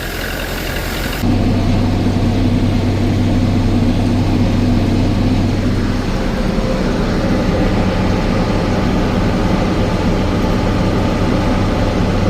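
Heavy vehicle engine running steadily with a deep, even hum; about a second in, the sound jumps suddenly to a louder, deeper engine drone.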